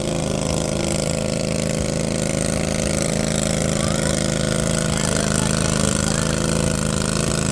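Cub Cadet 582 garden tractor's 25 hp Kohler V-twin engine running at a steady speed. It sounds like a small Harley.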